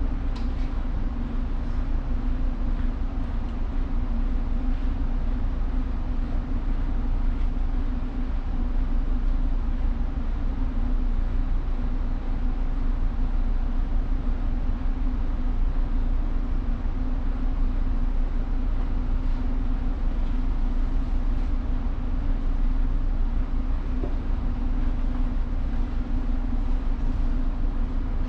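Steady low rumble of a ship's engines and machinery with a constant hum, running without change.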